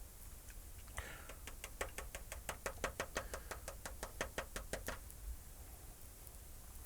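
A rapid run of sharp, evenly spaced mechanical clicks, about six a second, starting about a second in and stopping after about four seconds.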